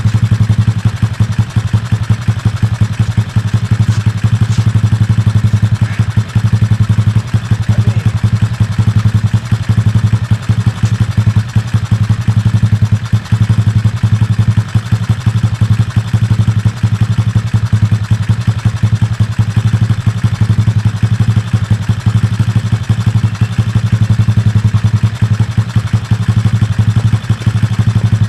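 Kayo pit bike's small four-stroke single-cylinder engine running steadily at idle after its carburettor has been overhauled and adjusted.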